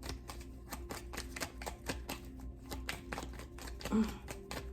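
A tarot deck being shuffled by hand: a rapid run of light card clicks and flicks, several a second.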